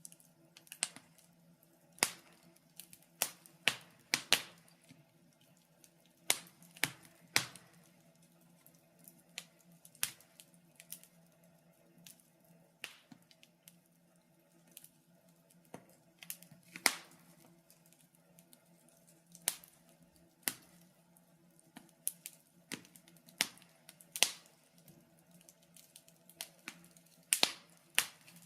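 Wood fire in a fireplace crackling, with irregular sharp pops and snaps, some in quick clusters, over a faint steady low hum.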